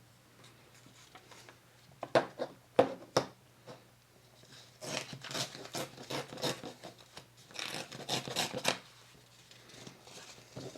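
Paper being handled and worked by hand: three sharp clicks about two to three seconds in, then two stretches of rustling, scraping paper strokes.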